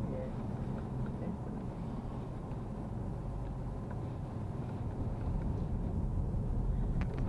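Porsche 987 S flat-six engine running gently at low speed, heard from inside the cabin as a steady low rumble with road noise; it grows a little louder about five seconds in.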